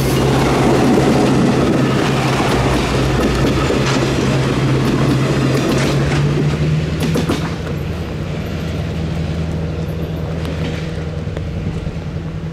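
Diesel freight train going by: a steady low locomotive engine drone, with the wheels clicking over rail joints. The sound eases off a little after about seven seconds.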